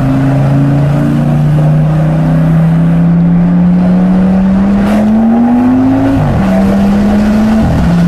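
Twin-turbo V10 engine of an Audi RS6 under hard acceleration, its note rising steadily for about six seconds. The pitch drops sharply about six seconds in and again near the end, as at gear changes.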